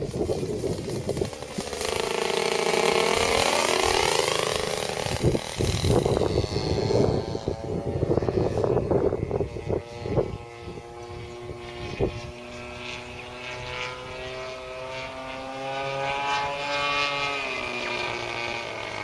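Radio-controlled model airplane in flight, its motor droning with a pitch that swoops down and up and shifts as it flies, with wind buffeting the microphone and a couple of sharp knocks.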